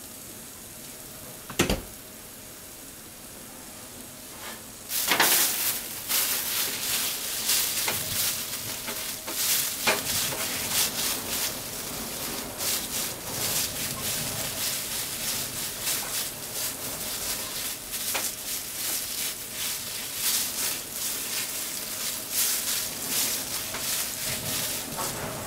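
Chicken frying in a nonstick pan: a single click about two seconds in, then sizzling with many small pops and crackles starts suddenly about five seconds in.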